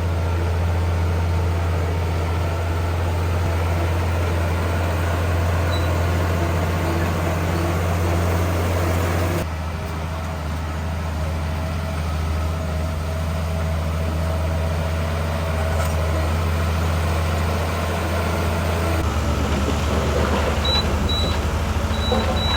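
Heavy diesel engine of earthmoving machinery running steadily with a deep hum, its sound shifting abruptly twice. A few short high beeps come near the end.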